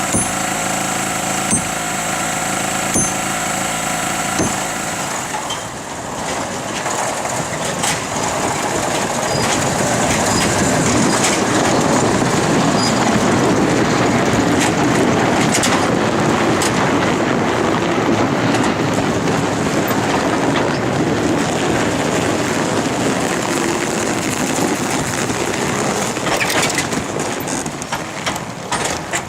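Engine of a heavy machine idling with a regular click about every second and a half. A few seconds in, it gives way to a loud, rough rumble that builds, holds for many seconds and eases off near the end.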